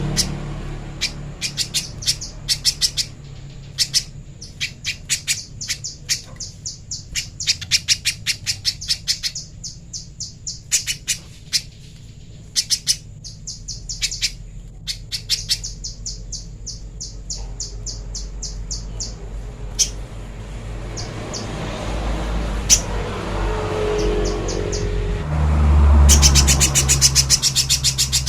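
Pijantung pisang spiderhunter calling: runs of sharp, high, rapidly repeated chips with short pauses between them, ending in a fast unbroken run of notes. A steady low hum lies underneath, and a rushing noise swells in the last few seconds.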